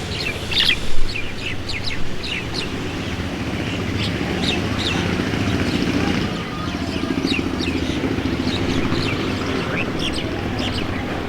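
Small birds chirping: many short, high chirps, a cluster about a second in the loudest, over a steady low rumble.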